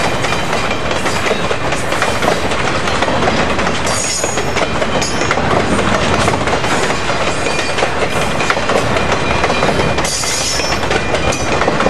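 Loaded flatcars of a freight train rolling past close by: a steady, loud clatter of steel wheels over the rail joints, with two brief high metallic squeals, one about four seconds in and one near the end.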